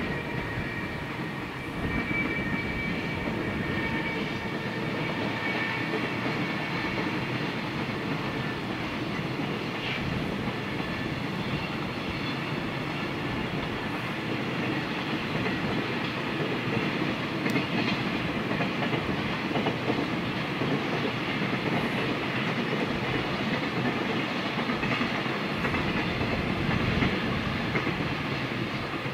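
A long container freight train hauled by a JR Freight EF210 electric locomotive passing: a steady rumble of wheels on the rails with the clickety-clack of wagons rolling over the rail joints, growing louder about two seconds in.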